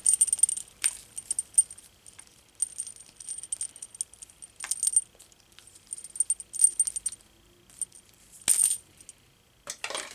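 Irregular light rattling and clicking in short bursts as the desoldering gun's hose and power cord are undone and handled, with one sharper click about eight and a half seconds in.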